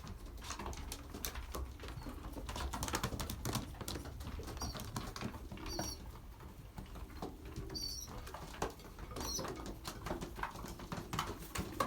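Young racing pigeons pecking grain from feeding trays: a steady run of quick sharp ticks and taps, with a few short high peeps from the young birds around the middle.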